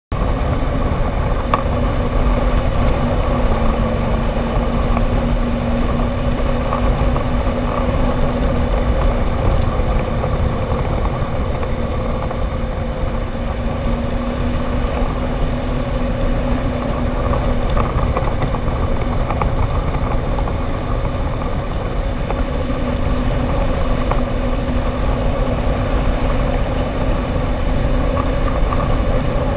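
Jet ski engine running at a steady speed, its pitch holding nearly constant, over a heavy low rumble.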